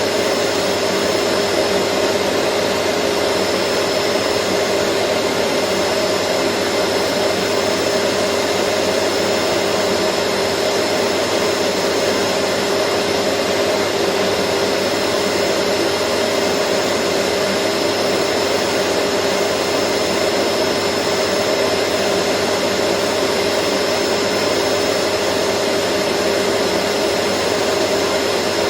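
Vacuum cleaner running continuously: a steady, unchanging rushing whoosh of air with a constant motor hum and a thin high whine.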